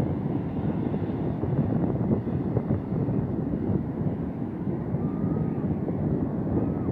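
Wind buffeting the microphone over the steady rumble of heavy surf.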